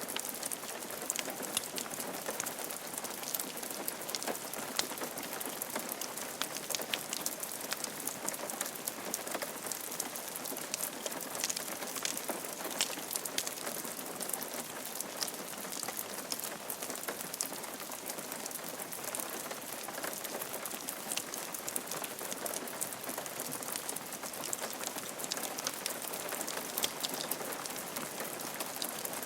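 Rain falling steadily on a roof: an even hiss of rainfall with many separate drops ticking on the surface.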